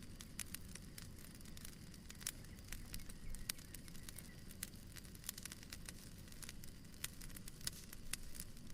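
Wood fire crackling in a fireplace: faint, irregular sharp pops and snaps over a low, steady rumble.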